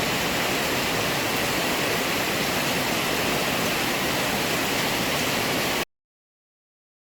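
Steady, dense rush of water, like a waterfall, fast stream or heavy rain, that cuts off suddenly near the end.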